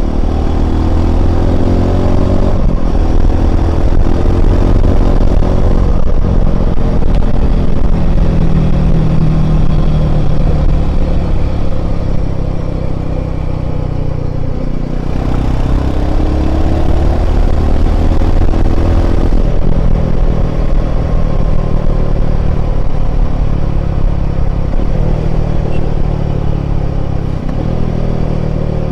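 Royal Enfield Himalayan 450's single-cylinder engine running under way, its pitch rising as it pulls and dropping back with brief throttle cuts at gear changes, about four times.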